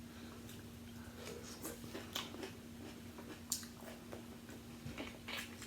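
Close-up eating of seafood: chewing and wet mouth sounds with scattered small clicks and crackles, a few sharper. A faint steady hum runs underneath.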